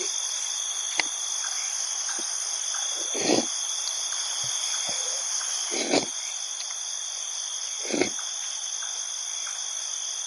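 Night insect chorus, a steady high-pitched trill, with four short knocks or crunches about 1, 3, 6 and 8 seconds in.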